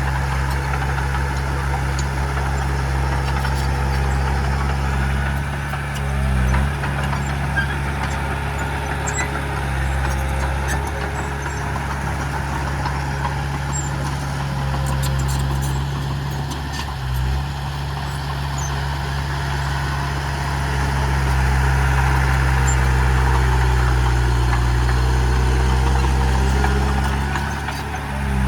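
Heavy diesel engine of earthmoving machinery running steadily with a low drone, dipping briefly twice and working harder for several seconds near the end.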